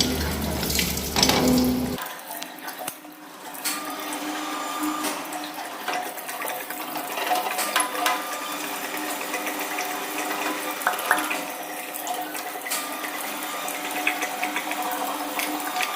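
Water running steadily as it drains out of an opened water-pressure booster pump's air tank, with a few light clicks. The first two seconds are louder and deeper before the sound changes abruptly.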